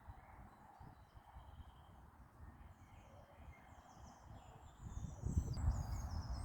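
Quiet outdoor ambience with faint bird chirps high in pitch; a low rumble builds about five seconds in.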